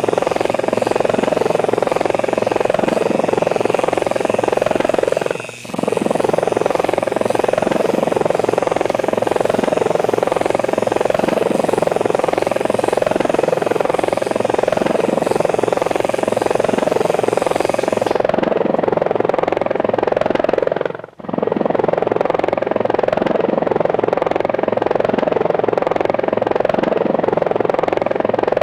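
Steady whirring drone of helicopter rotors with a fast, even pulse. It dips out briefly twice, about five and a half seconds in and again around twenty-one seconds, and the hiss above it falls away after about eighteen seconds.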